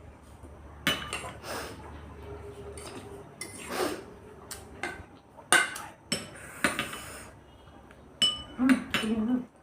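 Metal cutlery clinking and scraping against dishes while eating noodles, in a scattered series of sharp clinks, several in quick succession near the end.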